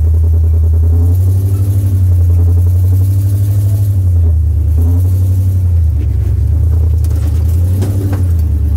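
Vehicle engine working hard under load while crawling up a steep rock climb, a loud low drone that rises about a second in and falls back twice as the throttle changes.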